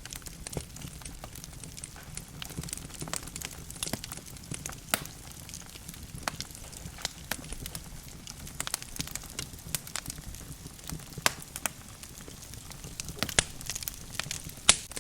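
Wood logs burning in a fireplace, crackling with irregular sharp pops over a steady low sound of the flames. The loudest pop comes near the end.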